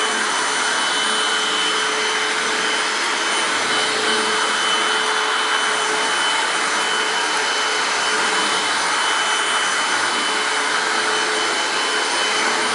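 Hoover WindTunnel Self Propelled U6485900 upright vacuum's 12-amp motor running steadily, a rush of air with a thin steady whine. It is working on bare floor with the brush roll disengaged and the self-propelled drive switched off.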